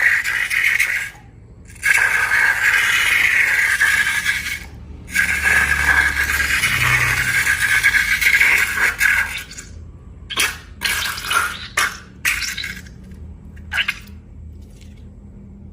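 Wet hissing sounds of slime being made, in long stretches with short gaps, breaking into several short bursts after about ten seconds.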